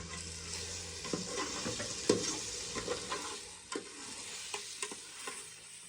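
Food frying and sizzling in a pan, with frequent clicks and scrapes as it is stirred with a utensil.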